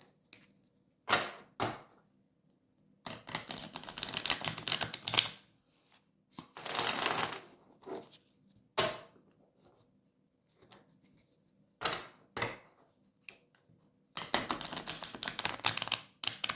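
Tarot cards being shuffled and handled: a few stretches of dense riffling and rustling, with single snaps and taps of cards laid down in between.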